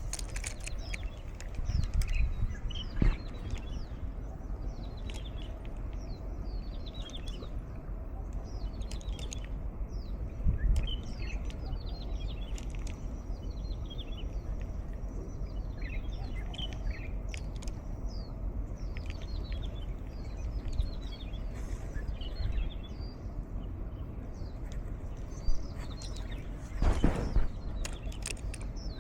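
Wild birds chirping over and over in short, falling notes, over a steady low rumble of wind on the microphone. A few dull thumps break in, the loudest near the end.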